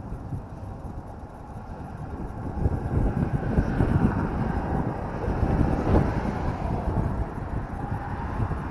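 Suzuki LS650 Savage's single-cylinder engine running on the move with wind rushing over the action camera's microphone, swelling louder about two and a half seconds in and easing off near the end.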